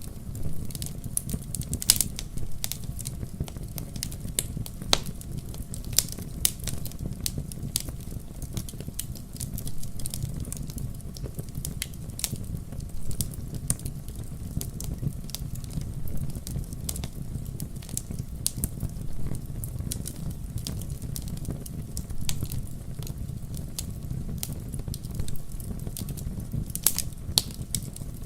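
Wood fire in a fireplace, burning with a steady low rumble and frequent sharp, irregular crackles and pops.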